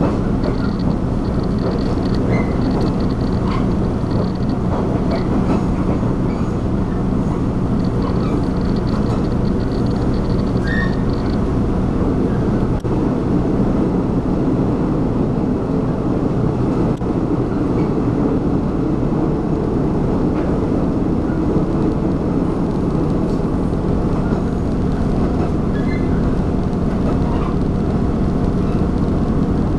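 Inside a moving Taiwan Railway diesel train: a steady engine hum and wheel rumble as it runs along the line. A faint high-pitched tone comes and goes during the first ten seconds or so.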